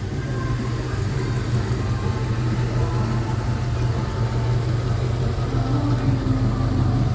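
Car engine running at low speed with a steady low rumble, a classic car creeping past.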